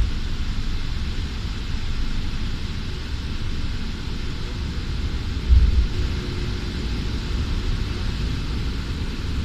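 Airliner heard from inside the cabin during takeoff: steady jet engine noise over a low rumble, with a brief low thump about five and a half seconds in.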